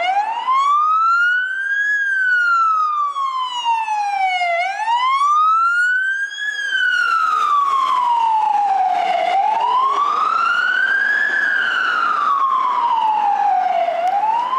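Emergency vehicle siren on a slow wail, its pitch rising and falling smoothly about every four and a half seconds.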